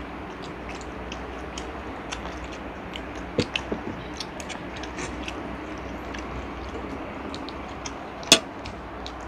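Children eating with their hands: chewing, with many small mouth clicks scattered over a steady low hum. There are a few louder clicks about three and a half seconds in and one sharp knock near the end.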